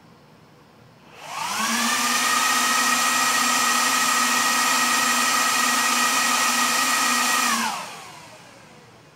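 HP DL360 G5 rack server's cooling fans spinning up with a rising whine to a loud steady rush, running for about six seconds, then winding down and fading. The server is powering itself on and off without being touched, a fault in which it never reaches video output.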